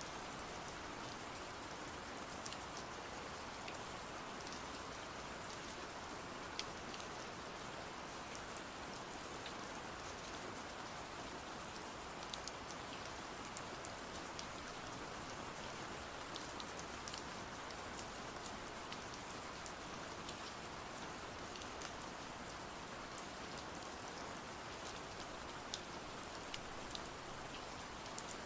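Steady rain falling, an even patter with scattered sharp ticks of drops throughout.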